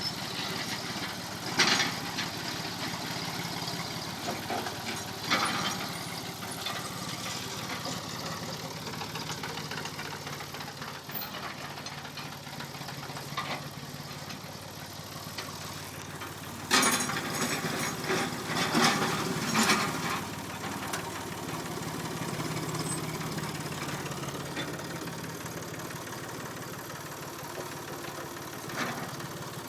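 Massey Ferguson 245 tractor engine running steadily while grading with a box blade. Loud clattering knocks break in briefly about a second and a half in and again around five seconds, then in a longer run of clatter just past halfway.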